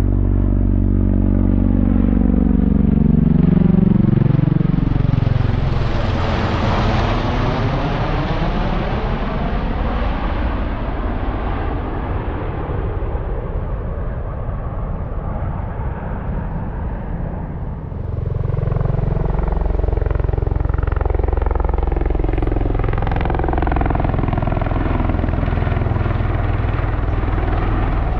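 Military aircraft flying low overhead, its engine noise rising to a peak about six seconds in and sweeping in pitch as it passes. The sound builds again from about eighteen seconds in, from a second pass or another aircraft.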